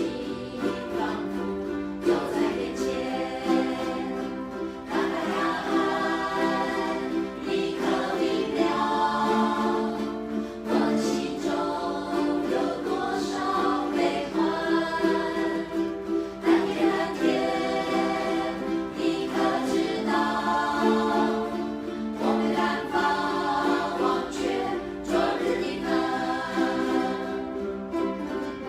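Ukulele ensemble strumming while a group of voices sings together in unison.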